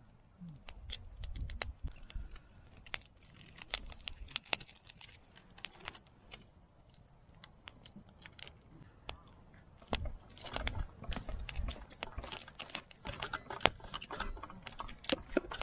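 Irregular sharp clicks and small clinks with soft low thuds, like gear being handled, busiest about ten seconds in.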